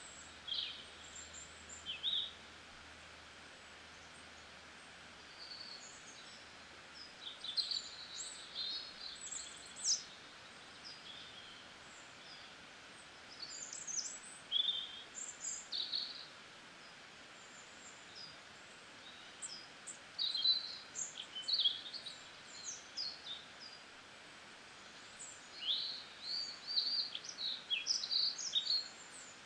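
Birds chirping in short, high calls that come in clusters every few seconds, over a steady faint hiss.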